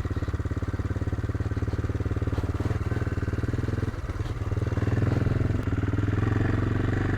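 AJP PR7's single-cylinder engine running at low revs with an even pulsing beat, dipping briefly about halfway and then picking up a little.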